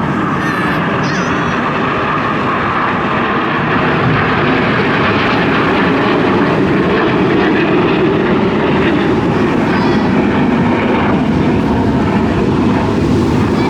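Aircraft flying over, a steady, loud engine noise that swells a little midway.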